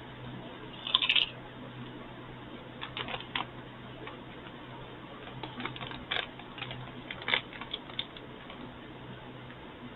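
Crisp potato chips crunching as they are bitten and chewed: a loud crackle about a second in, then scattered clusters of short crackles.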